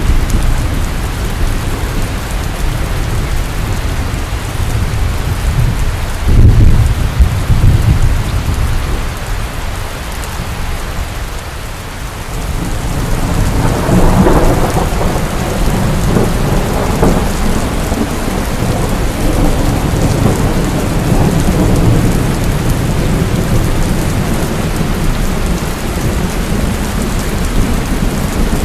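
Heavy rain pouring steadily, with thunder: a loud clap about six seconds in, then a long rolling rumble that builds up around halfway through and carries on.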